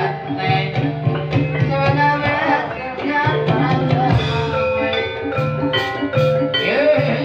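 Live ebeg dance accompaniment: gamelan-style metallophones struck in quick repeated notes over a steady, rhythmic drum pulse.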